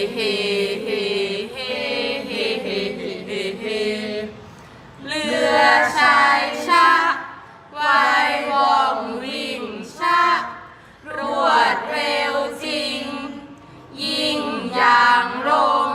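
Group of voices chanting Thai Kap He Ruea verse, the traditional royal barge procession chant, in long, wavering sung phrases with short breaks between them.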